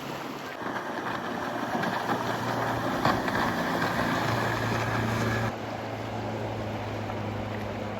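Motorboat engines running as boats pass through the inlet: a steady low drone with a wash of water noise that swells, then drops off suddenly about five and a half seconds in.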